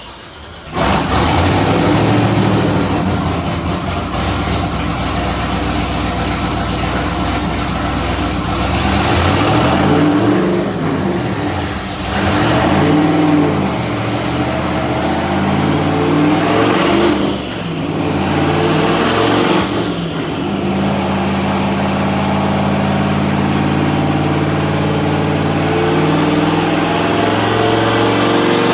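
Twin-turbo LS V8 engine running loud, starting about a second in. Its speed swings up and down in a series of revs through the middle, then holds steadier toward the end.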